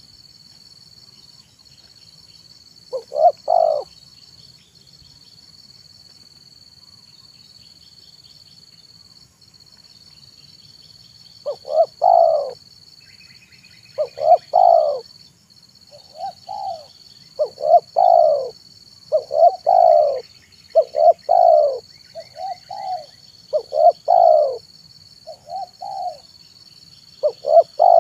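Spotted dove (tekukur) cooing: a short coo about three seconds in, then a run of coos repeated one after another from about halfway through to the end. A steady high-pitched insect drone runs underneath, with faint small-bird chirps here and there.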